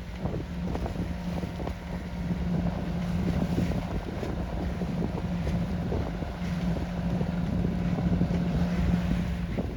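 A sailboat's diesel engine running steadily under way, a constant low hum, with wind on the microphone and water noise.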